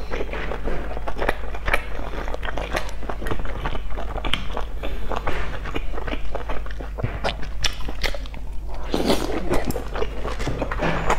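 Close-up chewing of soft boiled dumplings: many small wet mouth clicks and smacks, with a denser, noisier stretch about nine seconds in, over a low steady hum.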